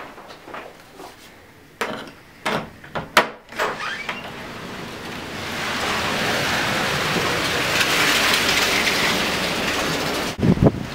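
A few knocks and clicks as a door is opened, then strong Santa Ana wind rushing past in a loud, steady hiss from about five seconds in, with gusts buffeting the microphone near the end.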